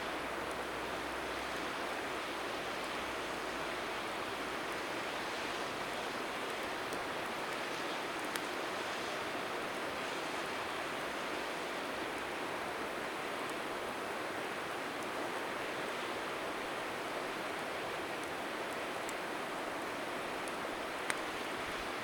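Steady rushing of a flowing river, with a few single sharp pops from the bonfire, one about eight seconds in and one near the end.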